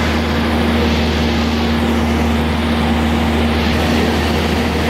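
A light propeller airplane's engine running in a steady drone, with a constant low hum and a held tone over it.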